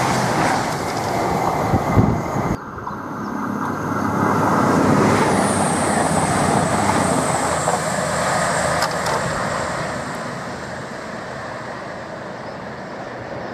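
A CrossCountry Voyager diesel multiple unit running past and away along the track, its engines and wheels on the rails rumbling, with an abrupt drop in sound about two and a half seconds in. A faint high whine runs through the middle, and the sound fades over the last few seconds.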